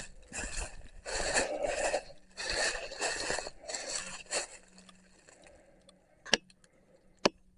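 Footsteps crunching and scraping through dry fallen leaves on a slope: four or five steps about a second apart, then they stop. Two short sharp clicks follow near the end.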